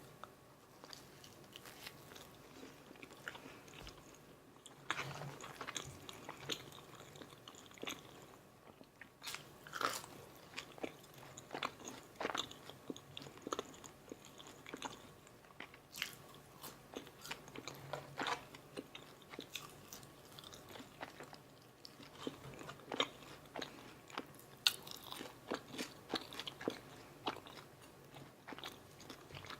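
Close-miked eating of a McDonald's Filet-O-Fish meal: irregular crisp, crunchy bites and wet chewing, with mouth sounds made deliberately loud.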